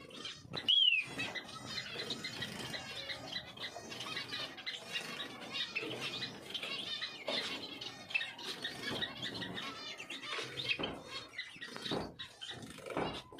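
Many small cage birds chirping and twittering together in a dense chatter, with one loud falling whistled note about a second in.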